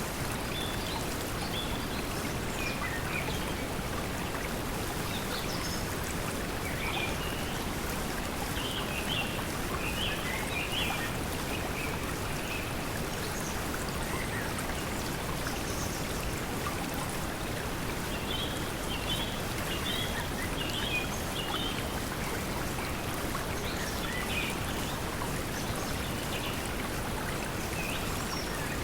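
Steady pink noise mixed with flowing water, with short bird chirps scattered through it, coming in small clusters about a third of the way in and again past the middle.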